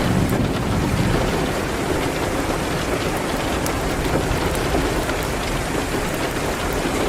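Steady rain hitting a window, with a low rumble underneath and scattered faint crackles from a fireplace.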